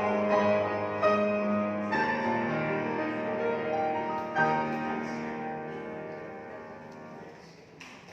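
Instrumental music led by piano, slow sustained chords that fade out near the end.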